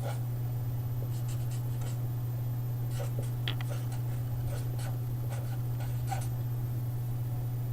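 Squiggles being drawn on a sheet of paper: many short strokes, some in quick runs, over a steady low hum.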